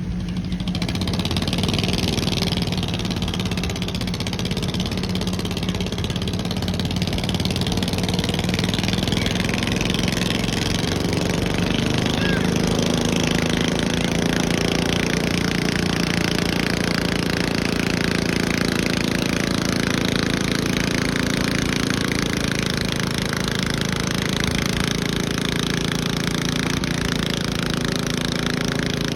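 Garden pulling tractor engine running hard and loud at high revs, with a rough, rapid firing note that wavers a little in pitch midway.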